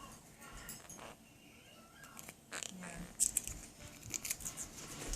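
Quaker parrot biting into a Ritz cracker, a series of small sharp crunches and clicks that come thicker and louder in the second half.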